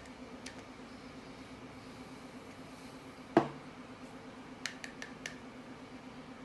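A single knock a little over three seconds in, followed about a second later by four quick, sharp clicks, over a steady low hum.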